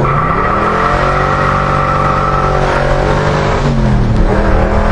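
A 1966 Chevelle SS's 396 big-block V8 accelerating hard from a launch, with the revs climbing quickly and then holding high. About three and a half seconds in the revs drop for an upshift on the four-speed manual and climb again in the next gear.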